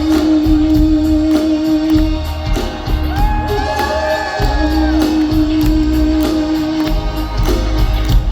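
Live band music with a steady bass and drum beat and a long held note, with a few gliding pitches in the middle.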